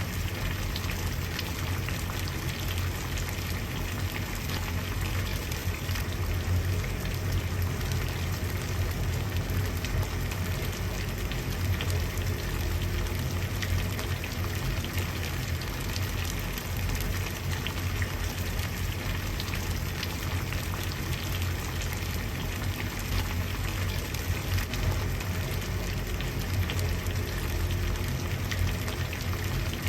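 Water at a rolling boil, bubbling and crackling steadily with a low rumble underneath.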